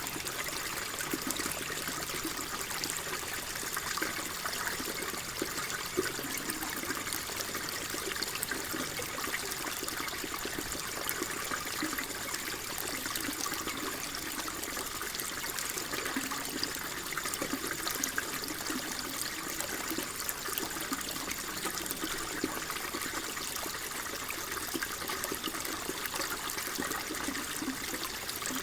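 Water flowing and trickling steadily, a continuous gurgle with many small splashes.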